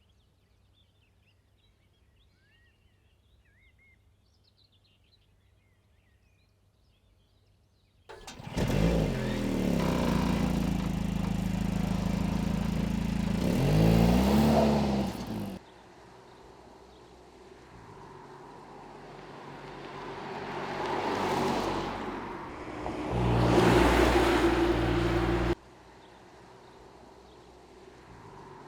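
Mercedes-AMG C43's turbocharged 2.0-litre four-cylinder engine and exhaust. It starts suddenly about a third of the way in and revs with a rise and fall in pitch, then cuts off. A second stretch builds through two louder swells of acceleration and ends abruptly near the end. Before the engine, only faint bird chirps are heard.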